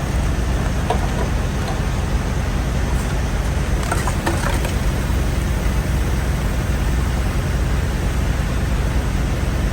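Semi-truck diesel engine idling steadily, with a few faint clicks about four seconds in.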